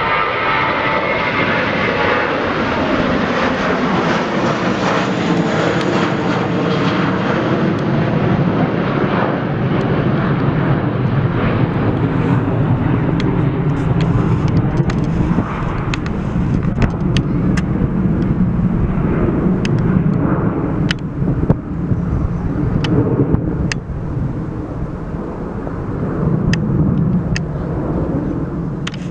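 Jet airliner engines roaring as the aircraft passes. The high part of the roar fades about a third of the way through, leaving a low rumble. A scatter of sharp clicks is heard in the second half.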